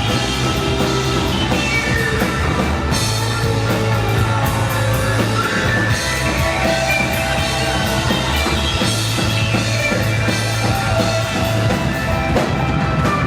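A live rock band playing: electric guitar, bass and drum kit with cymbal crashes, heard through the room at a loud, steady level.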